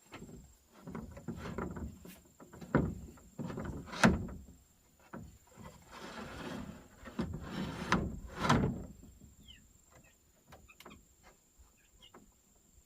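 Timber being handled during barn construction: a run of wooden knocks and bumps with scraping and sliding, the loudest knock about four seconds in.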